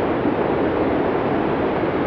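Blizzard wind from a classic Cinesound sound effect: a steady, dense rush of storm wind with no gusts, whistles or breaks, heaviest in the low-middle range.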